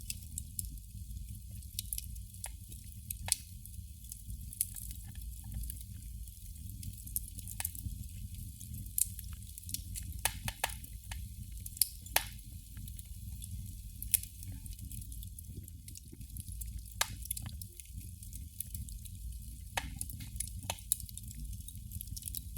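Candle flame crackling: irregular sharp ticks and pops, a few much louder than the rest, over a steady low hum.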